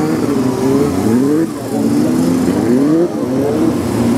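BriSCA F2 stock cars racing, several engines overlapping; their pitch rises again and again as they accelerate, then drops back.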